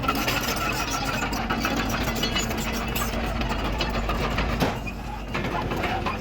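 Komatsu D31PX crawler bulldozer's diesel engine running steadily, with a dense, fast metallic rattling clatter over it that eases briefly about five seconds in.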